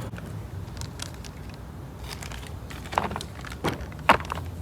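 Parts being handled at the A/C compressor: about three short sharp clicks and knocks in the second half, over a low steady hum.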